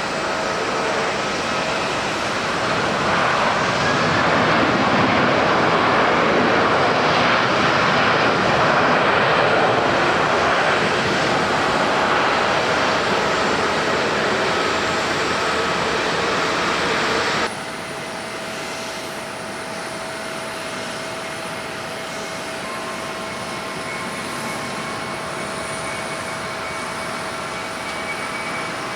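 Boeing 767-300ER jet engines: a landing airliner's loud rushing engine noise swells, peaks and slowly eases. About two-thirds of the way through it cuts off suddenly to a quieter, steady jet engine sound with a high whine from a second 767-300ER.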